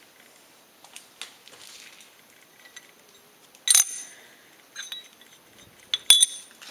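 Metal parts being handled and set down: small ticks and scrapes, with two sharp metallic clinks that ring briefly, one about halfway through and one near the end.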